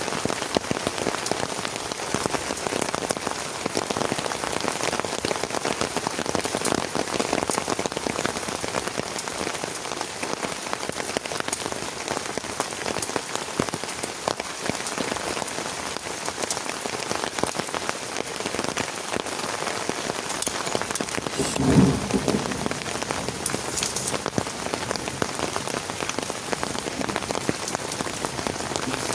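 Heavy rain falling steadily on a surface, with countless individual drops ticking. A short, dull thump stands out about three quarters of the way through.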